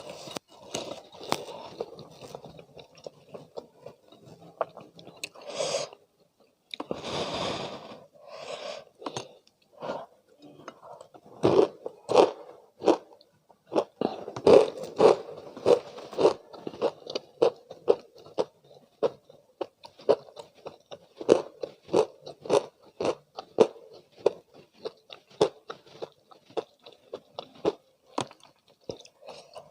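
Close-miked chewing and crunching of crispy spicy fried chicken. The sharp crackle of the coating is heard throughout, then from about eleven seconds in comes a steady run of chewing strokes, about two to three a second.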